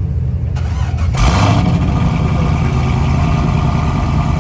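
Car engine fitted with aftermarket headers on a cold start: it surges sharply about a second in, then keeps running at a steady idle.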